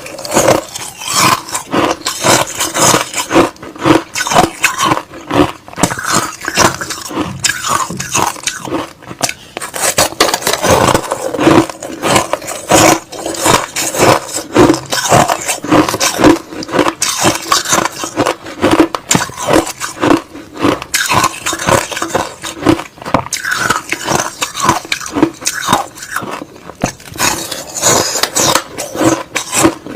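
Crushed-ice slush being bitten and chewed: loud, rapid, irregular crunching, several crunches a second without pause.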